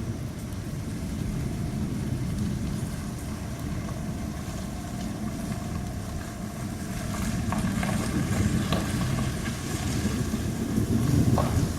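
Thunderstorm with a steady low rumble of thunder and wind, swelling a little in the second half.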